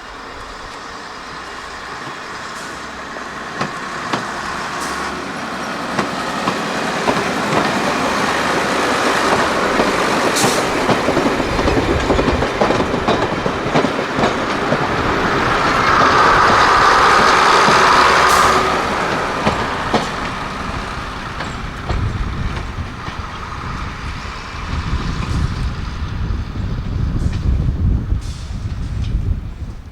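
A train running past on the heritage line, its wheels on the rails growing louder over the first half, loudest a little past the middle, then easing off.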